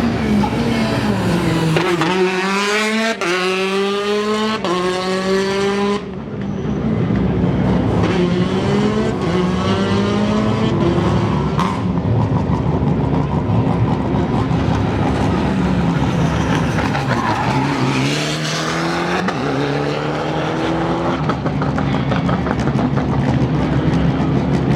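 Rally car engines at full throttle. One climbs hard through three quick upshifts a couple of seconds in. Engine noise carries on with more acceleration, and another run of rising revs and upshifts comes near the end.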